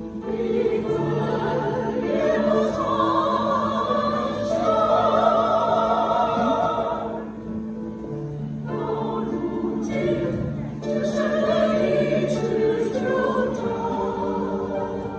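A choir singing in harmony, with a brief pause between phrases about seven seconds in before the singing resumes.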